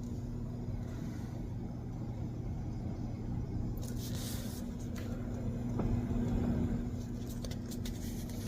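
Steady low mechanical hum and rumble, with a brief rustle about four seconds in.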